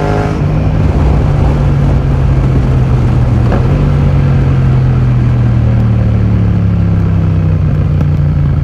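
2020 Yamaha MT-07's parallel-twin engine running loud through an Akrapovic full titanium exhaust with a modified dB killer. It holds a fairly steady engine speed, with a brief dip about three and a half seconds in.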